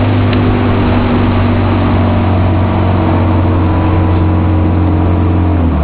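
Fishing boat's motor running steadily at speed, with wind and water rush from the hull, then the throttle eased back near the end, dropping the engine pitch.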